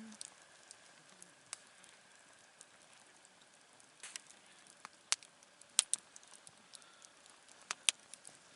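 Wood campfire crackling, with sharp pops scattered through it; the loudest come in a quick pair about six seconds in and another pair near eight seconds.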